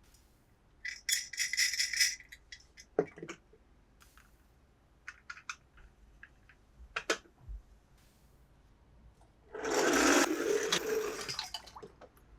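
Small hard toy pieces being handled: a quick rattle of clicks, a knock and scattered taps, then a louder rustle lasting about two seconds near the end.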